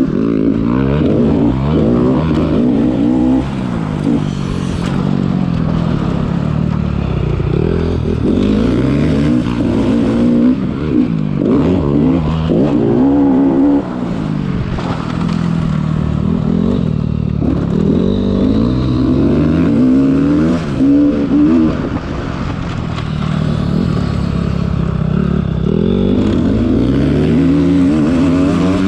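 Motocross bike engine ridden hard around a dirt track close to the microphone, revving up and falling off again and again through the throttle and gear changes.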